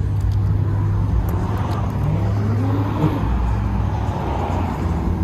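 Car engines rumbling steadily at idle, with one engine revving up and dropping back about two to three seconds in.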